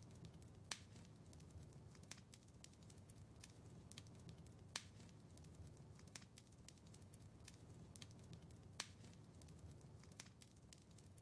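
A wood fire crackling faintly: frequent small ticks and pops, with three sharper snaps near the start, the middle and late on, over a low steady rush of the flames.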